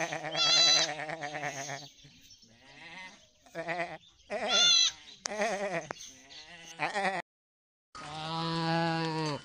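Sheep and goats bleating: a run of quavering bleats one after another, then a brief break and one long, steadier bleat near the end.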